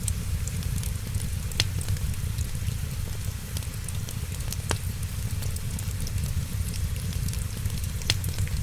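Wood fire crackling in a fireplace, with many small ticks and three sharp, loud pops over a steady low rumble and hiss, and rain falling in the background.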